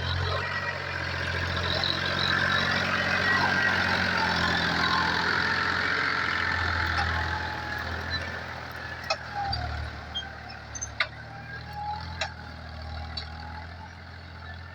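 Tractor engine running steadily while pulling a plough through the soil. It is louder over the first half, then eases off, and a few sharp clicks or clanks come in the second half.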